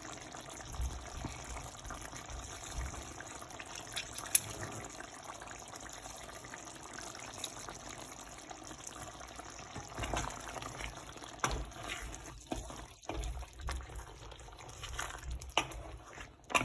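Chicken curry simmering in the pan: a steady, soft liquid bubbling hiss with a few faint clicks and knocks scattered through.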